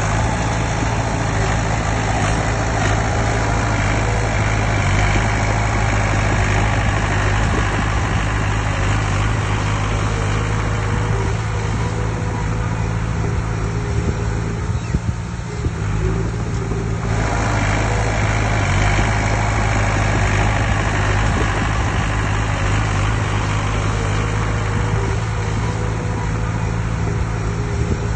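Heavy diesel engine of earthmoving machinery running steadily, with a deep even hum. About halfway through, the harsher upper noise eases for a couple of seconds and then comes back.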